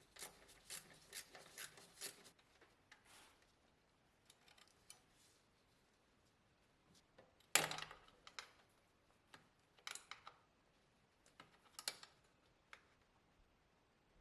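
Faint scattered clicks and taps of metal tools and parts being handled during engine disassembly, with one sharper clink about seven and a half seconds in.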